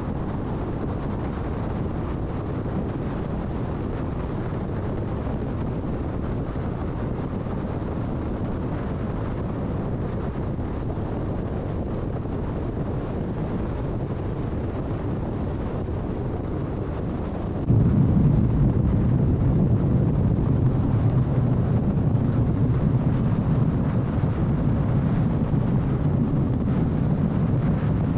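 Steady low road and tyre rumble of a car cruising on the freeway. About two-thirds of the way through it jumps suddenly louder and deeper, and stays that way.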